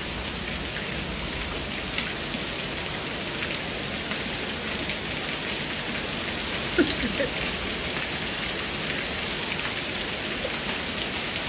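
Steady heavy rain falling, with one brief louder sound about seven seconds in.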